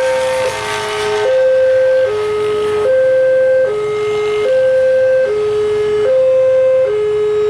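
Railway level crossing warning alarm sounding a two-tone high-low chime, each note lasting just under a second and repeating steadily. A rush of noise sits under it in the first second or so.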